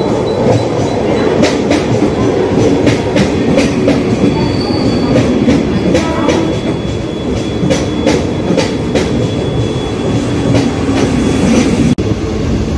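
Mumbai suburban EMU local train running along the platform, a loud steady rumble of coaches with irregular sharp clicks of the wheels over rail joints.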